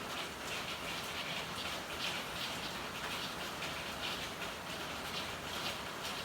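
Steady rain falling in an alley, an even hiss with an irregular patter of drops.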